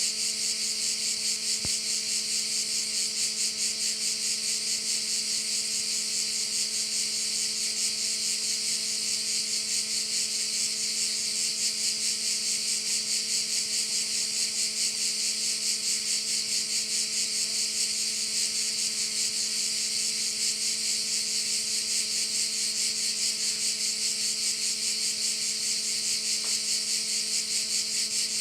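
Dense chorus of crickets chirring in one steady high-pitched buzz with a fast, even pulse, unbroken throughout.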